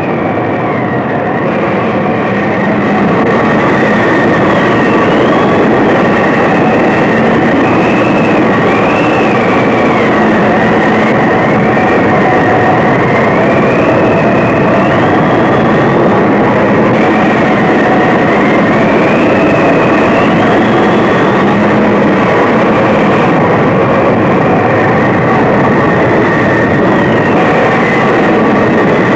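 The loud, continuous roar of a tornado, like a freight train, with a high howling whistle of wind rising and falling irregularly above it. The roar swells slightly about three seconds in.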